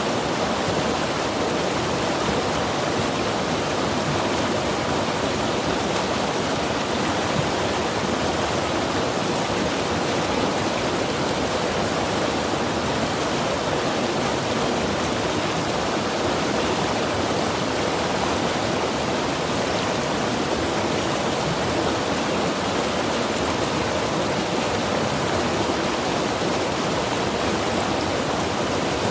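Mountain river rushing, a steady, even wash of flowing water with no breaks or changes.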